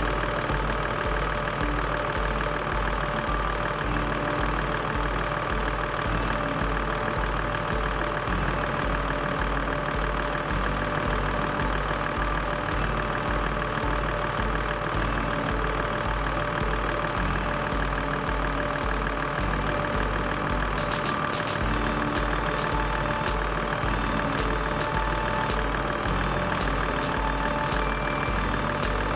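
Toyota Land Cruiser 80 engine idling steadily, with a regular low pulse about twice a second, as it runs for an air-conditioning refrigerant recharge.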